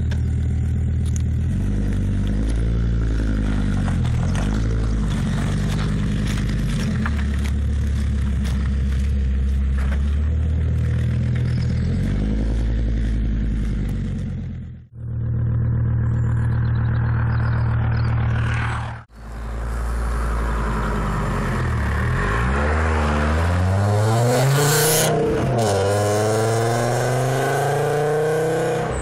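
Fiat Coupé 20V's naturally aspirated five-cylinder engine running loud through a custom stainless exhaust with a sports catalyst while driving. Its pitch rises and falls with acceleration and gear changes, and it climbs in a long rev near the end. The sound breaks off abruptly twice, about halfway and two-thirds in.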